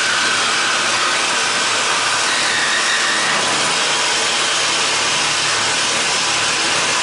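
Power tool cutting steadily through the copper tubing at an AC condenser's compressor.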